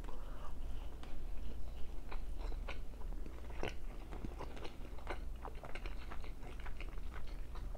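Close-miked mouth sounds of a man chewing a mouthful of white rice and chicken: irregular soft smacks and clicks, over a low steady hum.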